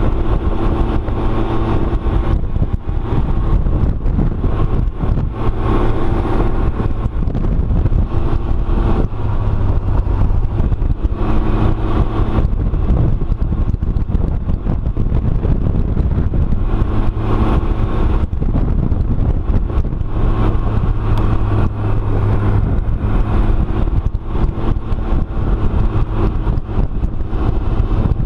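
Can-Am Ryker three-wheeler's engine running under way, its note rising and easing off with the throttle every few seconds, with road and wind noise.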